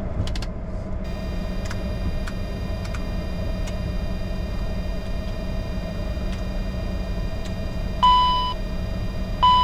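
Steady cockpit hum of a Bombardier Challenger 605 taxiing after landing, with a few faint clicks. Near the end, two short, loud, high beeps about a second and a half apart.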